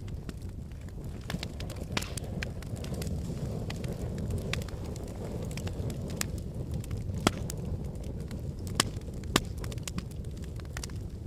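Wood fire burning in a fireplace: a steady low roar of flames with scattered sharp crackles and pops from the burning logs, three louder pops in the second half.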